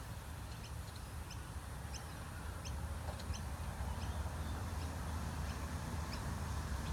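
A small bird chirping, short high chirps repeated about every two-thirds of a second, over a steady low rumble.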